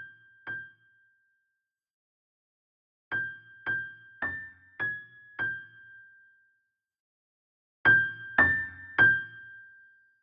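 High notes G6 and A6 struck on a small tuned percussion instrument. Each note has a short knock at the strike and then rings and decays. There are three groups of strikes about half a second apart, mostly G6 with a few A6 among them.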